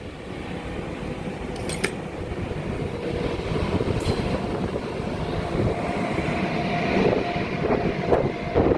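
Train running at speed, its rumble and rail noise growing steadily louder as it approaches.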